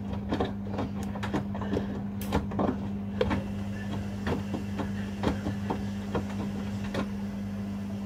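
Front-loading washing machines running a wash, the drum tumbling with a steady motor hum and irregular knocks and clicks, which thin out after about three seconds.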